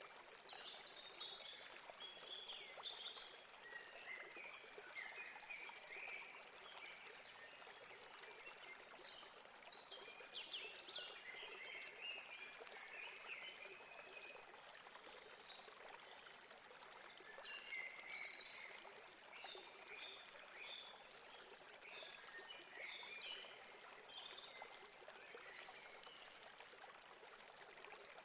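Faint, steady running water of a stream or river, with small birds chirping on and off throughout.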